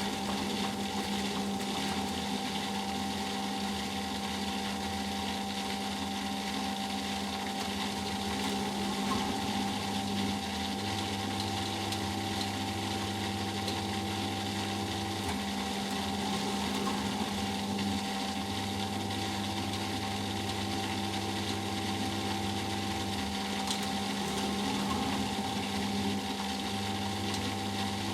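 Eudora Sparmeister 702 Classic washing machine in its final spin, running with a steady whine and hum, and a lower hum that comes and goes several times.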